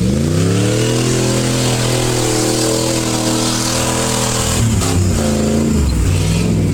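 Off-road vehicle engine revving hard. It climbs over the first second, holds at high revs for a few seconds, drops back about five seconds in, then revs up again near the end.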